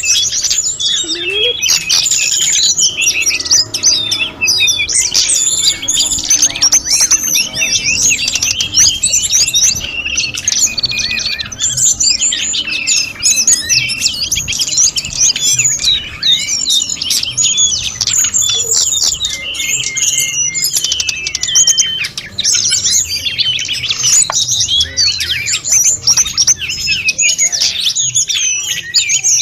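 Tledekan gunung (sulingan gunung) songbird singing without pause, a fast, varied run of high chirps, twitters and short whistled notes.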